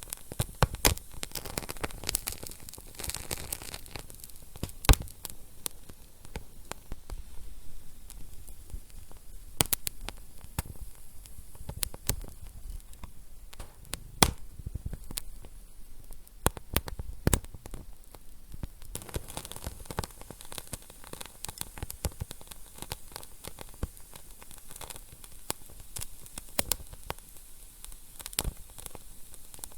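Wood fire burning in a fireplace: a steady low hiss with frequent sharp crackles and pops, a few of them much louder.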